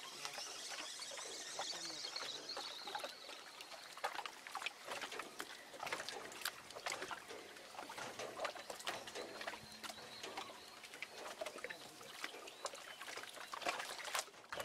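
Close handling noises: irregular clicks, rustles and knocks, with a faint high whine that falls in pitch over the first few seconds.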